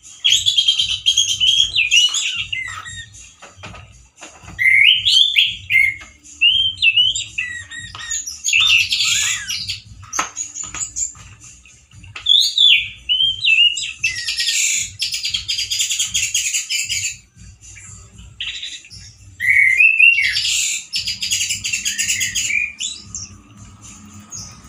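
Male orange-headed thrush singing loudly and harshly in about five bursts of rapid, twisting phrases, each a few seconds long, broken by short pauses. The song is still short on variety, by the keeper's judgement.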